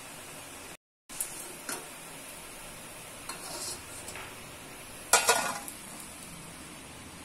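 Onion bondas frying in hot oil with a steady sizzle, while a perforated steel slotted spoon clinks against the steel pot a few times. About five seconds in comes the loudest sound, a short clatter of steel against steel as the bondas are lifted out onto a steel plate.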